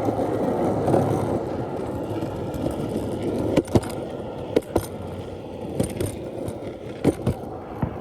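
Longboard wheels rolling over pavement with a steady rumble. In the second half come several sharp clicks.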